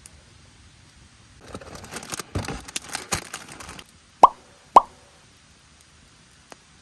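Clattering and rustling for about two seconds, then two short, loud plops half a second apart, each dropping quickly in pitch.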